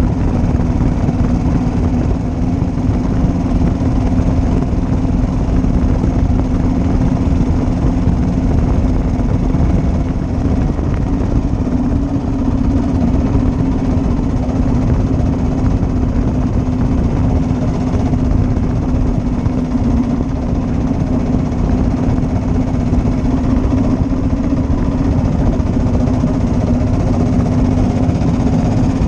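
1941 Matchless G3L's 350 cc single-cylinder four-stroke engine running steadily under way, its pitch holding even throughout.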